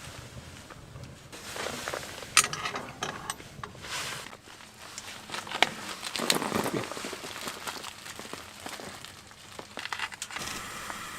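Irregular crinkling and rustling with scattered sharp clicks, like camping gear and fabric being handled. A steady hiss sets in near the end.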